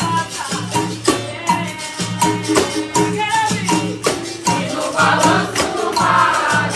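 Capoeira Angola roda music: berimbaus with shaker rattles, tambourine-like pandeiro and drum playing a steady, even rhythm. Several voices come in singing about four and a half seconds in.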